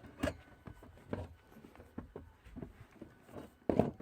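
A handful of light knocks and clunks in a small enclosed room, spaced about a second apart, with the loudest cluster of thuds near the end.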